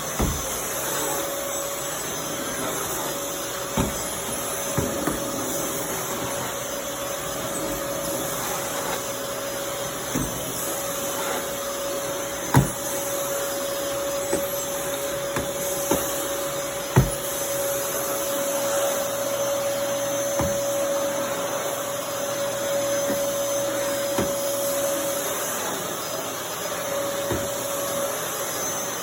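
Dyson DC23 Animal canister vacuum cleaner running steadily with a constant whine, vacuuming, with a dozen or so short knocks scattered throughout, two of them louder about halfway through.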